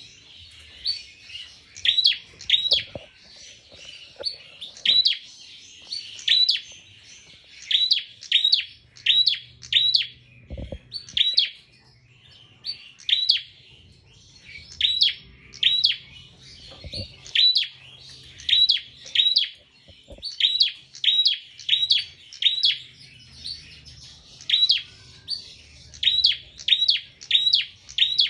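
A prinia (prenjak) singing continuously: sharp, sweeping high notes in quick runs of two to five, with short pauses between runs. A few faint knocks are heard now and then.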